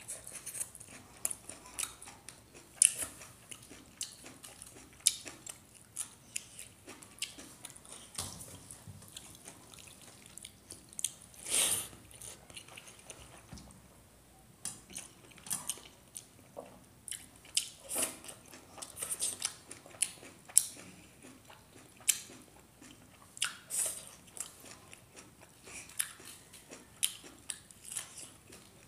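Close mouth sounds of a person eating cooked gadha saag greens and rice by hand: wet chewing, smacking and biting in quick, irregular clicks.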